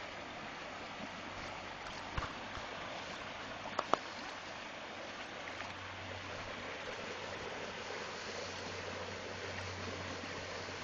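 River water rushing steadily, with a few short sharp knocks about two seconds in and a louder pair just before four seconds in.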